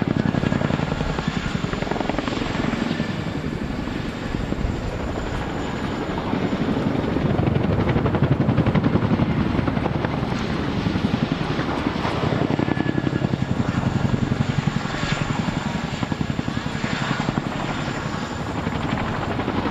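CH-47J Chinook tandem-rotor helicopter hovering and turning in place, its twin rotors beating in a fast, even rhythm over a steady high turbine whine. The sound swells in the middle and eases toward the end as the aircraft turns.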